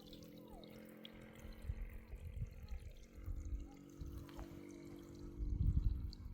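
Irrigation water pouring and trickling, with low rumbles that grow louder about five seconds in.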